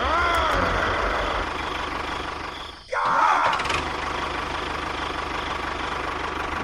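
An engine runs with a steady low hum and revs twice, at the start and about three seconds in; each rev rises in pitch and then slowly sinks.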